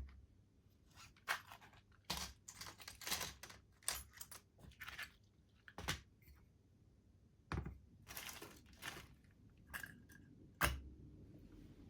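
Small parts and tools being pushed about and rummaged through on a workbench: an irregular run of light clicks, taps and short rustles, with one sharper knock near the end.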